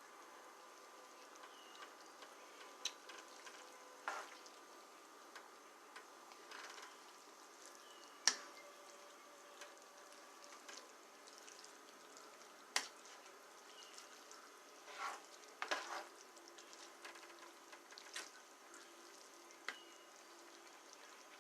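Faint kitchen sounds: about a dozen scattered sharp clicks and knocks, the loudest a little after eight seconds and another near thirteen seconds, over a low steady hum.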